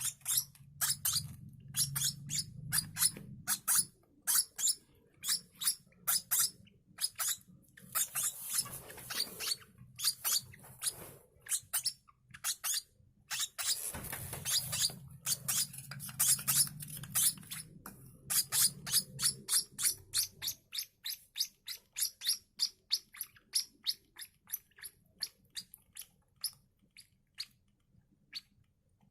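Six-day-old lovebird chicks cheeping in a rapid string of short, high begging peeps, about two to three a second, with two longer, rougher bursts about 8 and 14 seconds in. A low hum runs underneath and stops about two-thirds of the way through.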